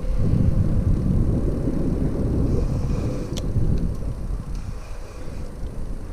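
Low, steady rumble of a bicycle rolling along, with one sharp click about three and a half seconds in.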